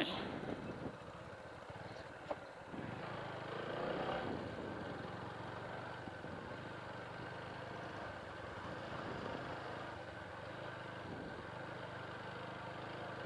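Motorcycle engine running steadily at low revs, with a brief click about two seconds in.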